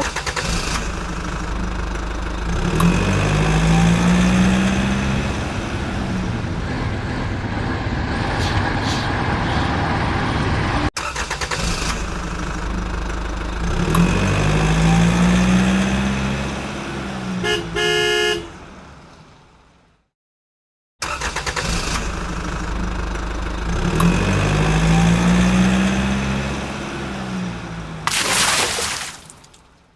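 A looped vehicle sound effect: an engine running with a rising and falling hum, and a quick series of horn toots. The same stretch of about ten seconds repeats three times, with abrupt cuts between the repeats.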